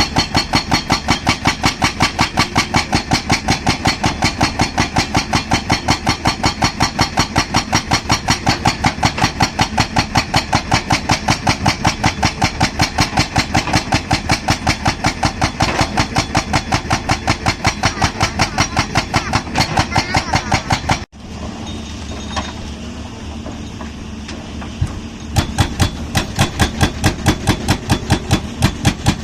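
Excavator-mounted hydraulic concrete breaker hammering in rapid, even blows, about five a second, over the excavator's running diesel engine. The blows stop suddenly for about four seconds, leaving the engine running, then start again.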